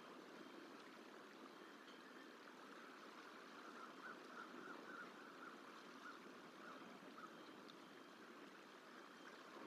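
Faint steady rush of running water. A short run of faint bird calls comes about four to seven seconds in.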